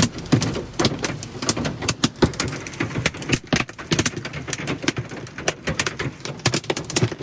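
Hailstones pelting a car's metal body, an irregular rapid clatter of sharp knocks, several a second, heavy enough to dent the panels.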